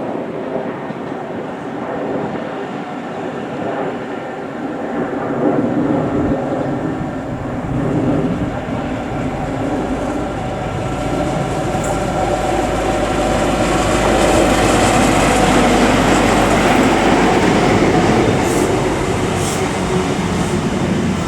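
A train passing through the station: steady mechanical tones at first, then a rushing rumble of wheels on the rails that builds from about halfway through and is loudest about three-quarters of the way in, easing slightly near the end.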